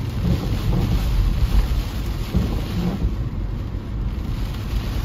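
Heavy rain beating on a car's windshield and roof, heard from inside the cabin, over a steady low rumble of the car driving on the wet road.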